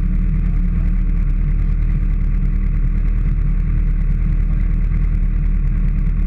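Motorcycle engine running at a steady speed with a heavy, even low rumble, like wind on an onboard camera, with no change in revs.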